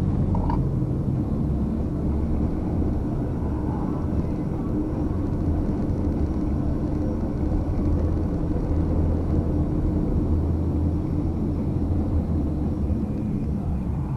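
A steady, muffled low rumble heard from inside a bag.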